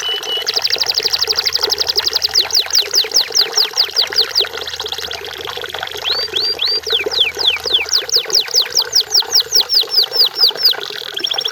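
Canary singing: long tours of quick, repeated down-slurred whistles, one tour running straight into the next. Some tours are very fast trills and others slower.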